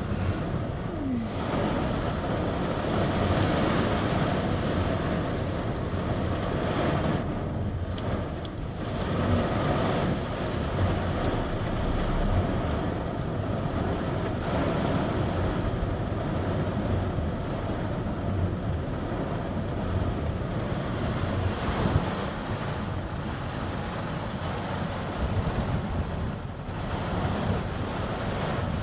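Heavy thunderstorm rain pouring steadily, a continuous rushing noise.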